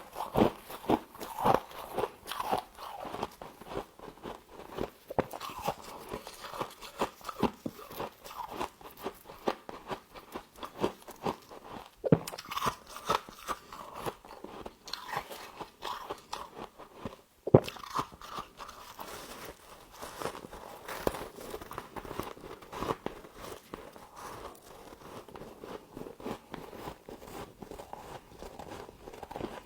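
Close-up crunching and chewing of frost: bites crackling, then steady crisp chewing, with a couple of sharper, louder bites about twelve seconds in and again past the middle.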